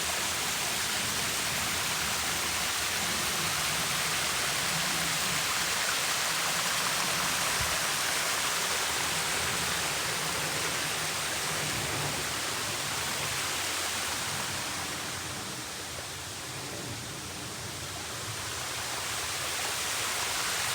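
Waterfall: a steady rush of falling water, a little quieter for a few seconds about three-quarters through.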